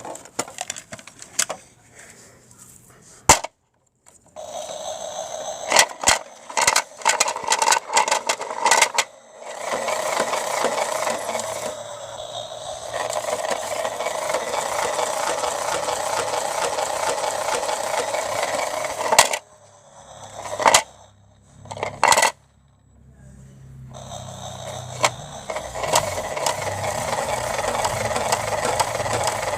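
Toy washing machine running with bricks tumbling inside its drum: a steady clattering rattle with scattered knocks. It stops about two-thirds of the way through, a few loud knocks follow, then it runs again with a low motor hum under the rattle.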